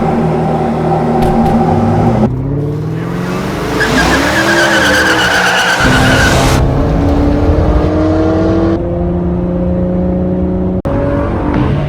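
Ford GT supercar engine accelerating hard, its pitch climbing and then dropping back at each of several gear changes.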